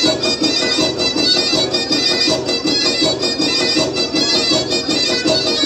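Traditional Black Sea folk dance music played on a droning, reedy folk instrument over a quick, steady beat.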